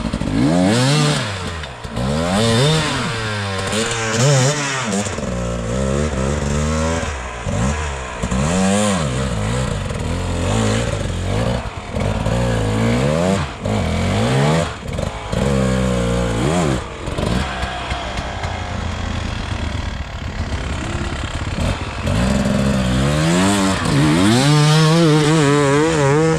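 Dirt bike engine revving up and down over and over as it is ridden, its pitch rising and falling every second or two, holding steadier for a while before climbing again near the end.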